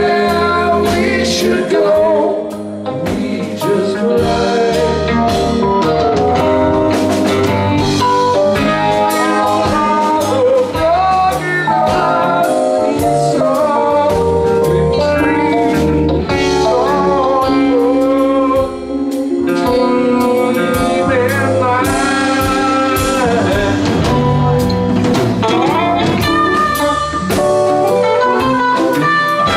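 Live rock band with electric guitars, bass and drums playing a stretch with no lyrics, with lead guitar lines gliding in pitch.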